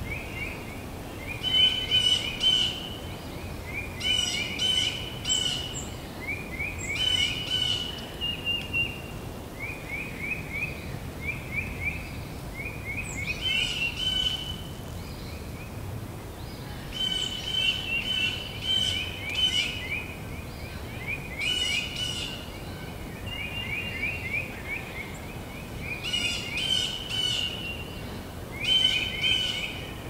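Forest birds singing in short phrases of quick repeated chirps that recur every second or two, over a steady low background noise.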